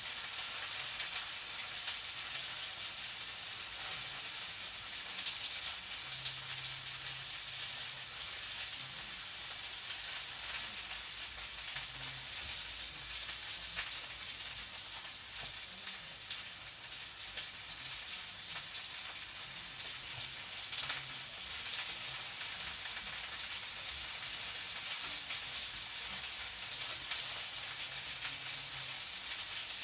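Food frying in a pan: a steady sizzle with scattered little crackles.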